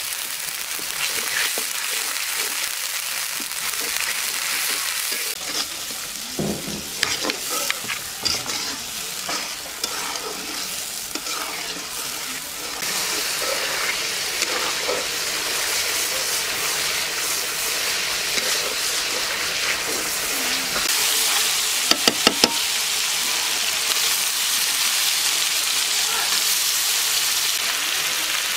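Onions, green chilies and spice paste sizzling in hot oil in a black iron karahi, with stirring; a steady hiss that gets a little louder about halfway through. A few scattered knocks in the first third and a quick run of sharp clicks about three quarters of the way in.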